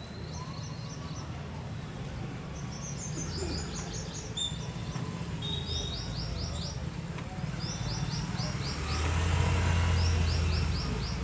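Small birds chirping in quick series of five or six short, high, downward notes, a new series every two or three seconds. A low rumble swells about nine seconds in and fades before the end, the loudest sound here.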